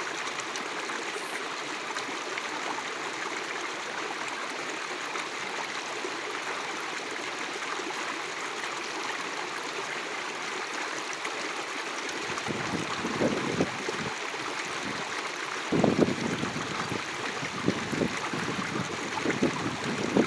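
Bonfire burning with a steady rush and fine crackles. From about twelve seconds in, gusts of wind buffet the microphone.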